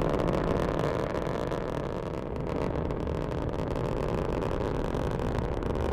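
SpaceX Falcon 9 rocket's first-stage engines at full power during ascent: a steady, low rumble.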